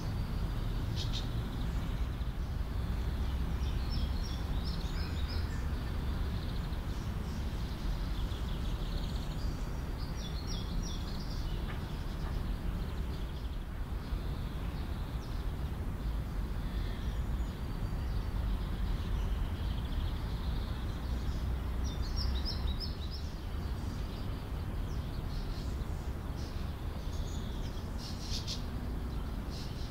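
Birds chirping in short, quick trills a few times over a steady low outdoor rumble.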